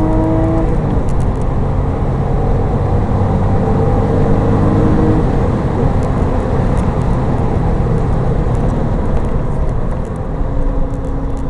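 Porsche 911 Turbo's twin-turbo flat-six pulling hard at speed, heard from inside the cabin over heavy tyre and wind noise. The engine note holds steady, easing slightly near the end.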